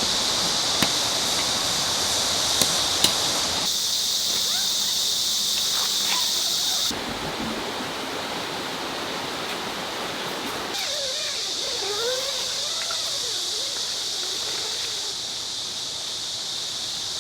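A valley stream rushes steadily under a high, even insect drone. The insect drone drops out for a few seconds in the middle and then comes back. A few sharp clicks sound in the first few seconds.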